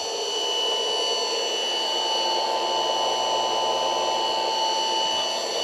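A steady machine hum with a constant high whine, unchanging throughout.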